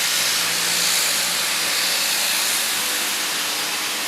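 Steam locomotive 3237 venting steam: a steady hiss that holds unchanged throughout.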